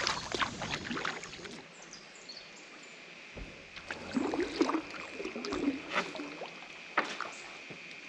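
Kayak paddling: paddle strokes splashing and dripping in the water, with a few sharp knocks, the loudest near the end.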